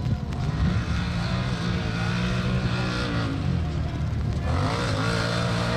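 ATV racing engines revving and easing off as the machines run the track, more than one engine at a time, with the pitch dropping and then climbing again about four and a half seconds in.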